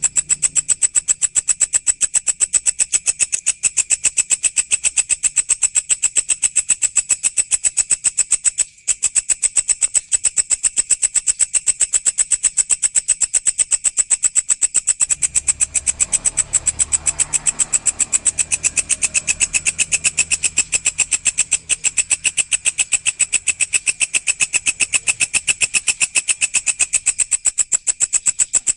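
Walang (grasshopper) stridulating in a rapid, even, high-pitched pulse train that runs on with one brief break. A low rumble sits underneath through the second half.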